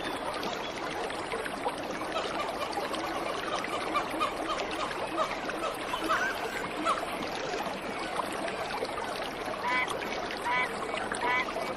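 Waterfall rushing steadily, with small birds chirping over it. Near the end one bird repeats a short call about once a second.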